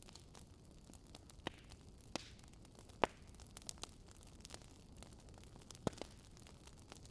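Campfire burning: a low hiss with sharp crackling pops from the burning wood every second or so, the loudest about three seconds in.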